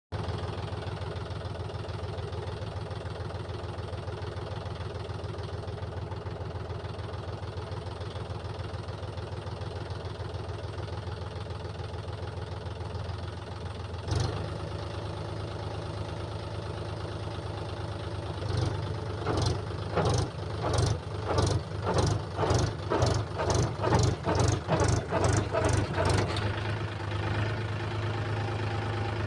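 Tractor engine idling steadily, with a single sharp knock about halfway through. Then come about sixteen loud pulses, roughly two a second, for about eight seconds, before the engine settles back to a steady run.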